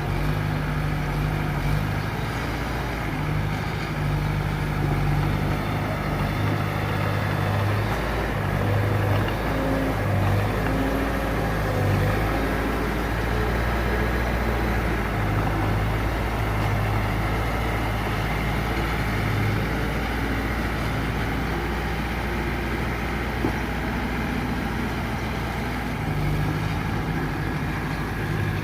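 Diesel engine of earthmoving machinery running steadily, its low note shifting up and down as the load changes.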